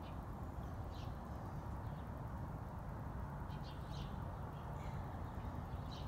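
Birds chirping in short calls every second or so, over a steady low background rumble.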